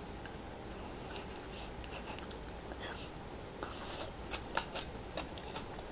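Faint mouth sounds of a person biting and chewing a larva: soft scattered clicks and crackles, more of them in the second half, over a low steady room hiss.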